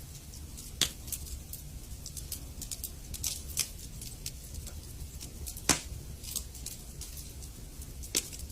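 Wood fire in a fireplace crackling: irregular sharp pops over a steady low rumble of the flames, with the loudest pops about a second in, just before six seconds and near the end.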